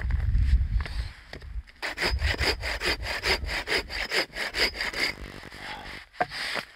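Hand saw cutting through a log of firewood in quick, even strokes, about four a second, for around three seconds. A low rumble comes before it at the start.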